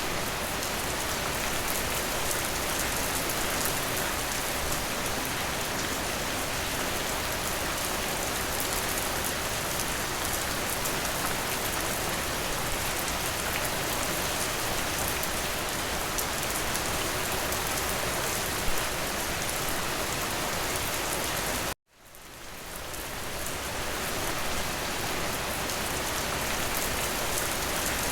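Steady rain falling, with fine individual drops ticking through the hiss. About three-quarters of the way through it cuts out abruptly, then fades back in over a couple of seconds, like a loop join in the recording.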